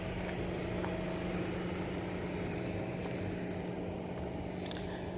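Car running with a steady hum and a constant low tone, with a few faint ticks.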